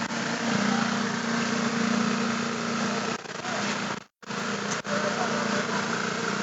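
An engine on concrete-pouring machinery running steadily, with a brief drop-out about four seconds in.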